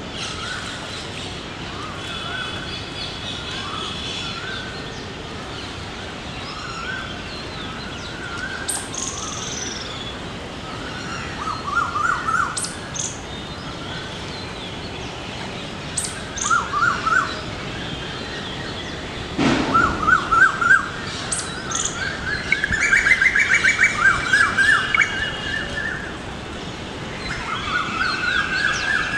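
Several birds chirping and calling in repeated short trills, busier and louder in the second half, over a steady outdoor background hiss. A single short thump about twenty seconds in.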